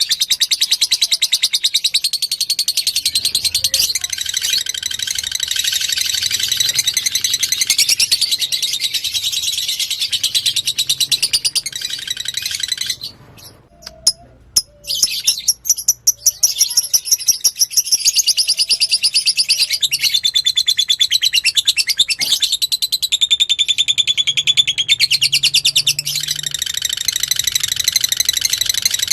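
Fighter lovebird singing a long, fast, high-pitched chattering song of densely repeated chirps. It breaks off for a couple of seconds about 13 seconds in, then carries on.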